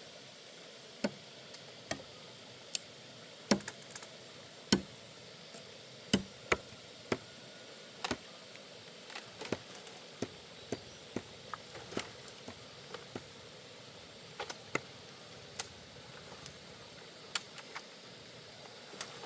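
Wood being chopped by hand with a blade: irregular sharp strokes, roughly one or two a second, some much harder than others.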